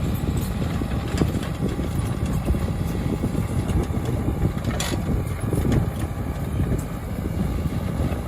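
Heavy earth-moving machine's diesel engine running steadily with a low rumble, and a single short metallic knock about five seconds in.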